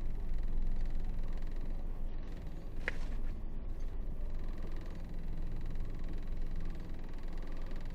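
Isuzu 8x4 heavy truck's diesel engine running steadily with a low hum, with one brief high squeak about three seconds in.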